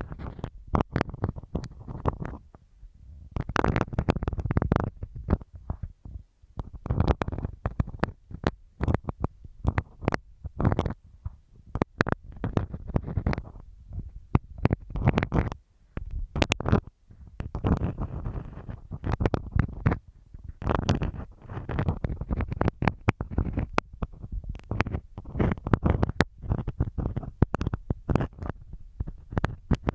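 Marking pins scratching and tapping on masking tape close against a binaural microphone: a busy run of sharp clicks and scratchy rustles, heavy in the low end, with short pauses.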